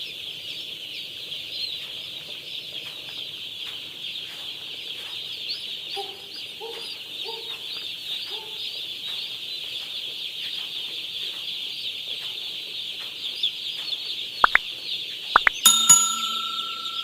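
Continuous high-pitched peeping of a shed full of day-old broiler chicks, many short chirps overlapping. Near the end come a few sharp knocks, then a metallic clang that keeps ringing.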